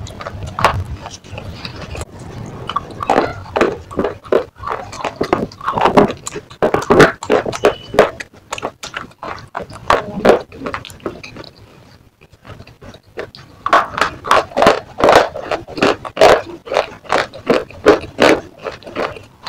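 Close-up crunching and chewing of brittle slate pieces: a quick run of sharp crunches, a short lull a little past halfway, then dense crunching again.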